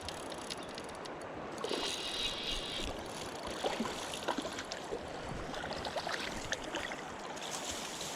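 Fishing reel winding in a hooked eel: a short rattling buzz about two seconds in, then scattered light clicks and ticks, over a steady hiss.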